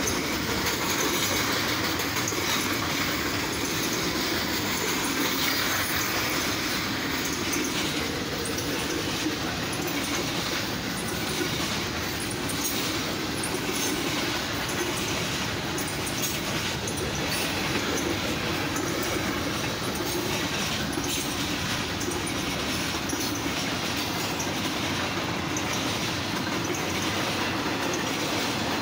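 Freight cars rolling past at close range: a steady rumble of steel wheels on rail, with repeated clicks as the wheels pass over rail joints.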